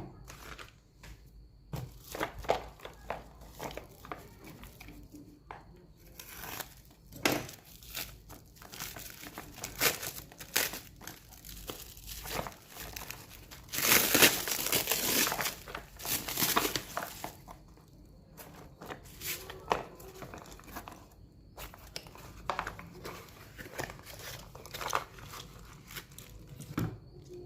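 Packaging being handled and opened by hand, with irregular crinkling, rustling and tearing. It is busiest about halfway through.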